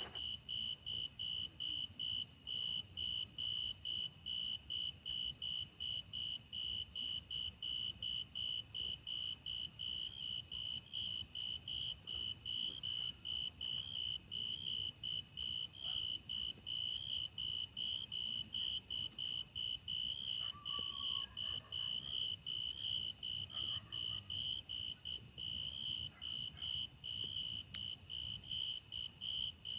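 Insects chirping: a high, even pulsing chirp repeating about twice a second, over a fainter steady higher-pitched insect trill.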